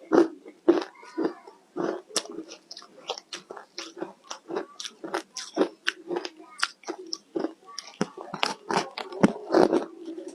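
Ice being bitten and chewed close up, a run of crisp, irregular crunches several times a second.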